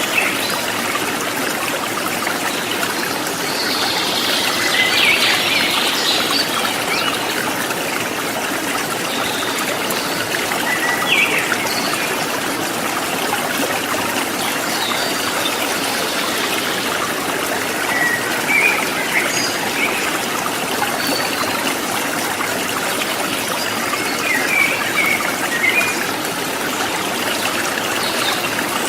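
River water running over rocks, a steady rushing and trickling. Small birds chirp briefly now and then over it.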